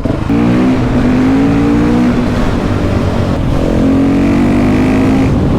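KTM 690 SMC R's single-cylinder engine through a Leo Vince exhaust, pulling under throttle. Its note fades about two seconds in and picks up again about a second and a half later.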